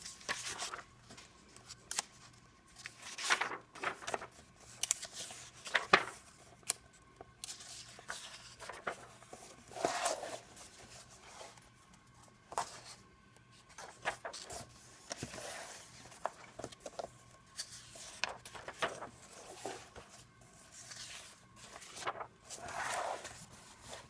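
Pages of a glue-bound paper coloring book being turned one after another: short papery swishes and rustles every second or two.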